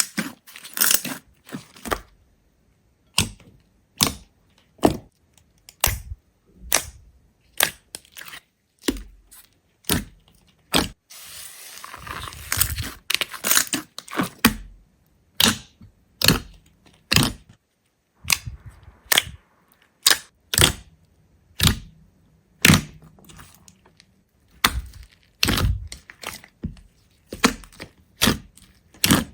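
A series of short, crisp crunches and cracks, roughly one a second and uneven, with silence between most of them, like brittle material being broken or crushed.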